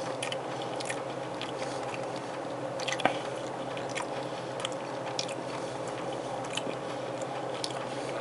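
A person chewing a mouthful of chili hot dog with peppers close to the microphone: many small mouth clicks throughout, one louder click about three seconds in, over a steady low hum.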